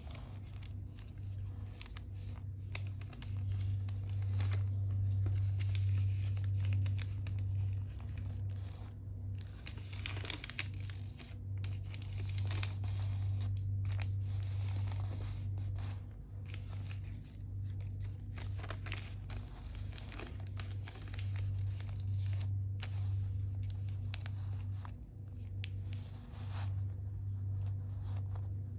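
Sheet of paper being folded and creased by hand: irregular crinkling and rustling crackles, some sharper, over a steady low hum.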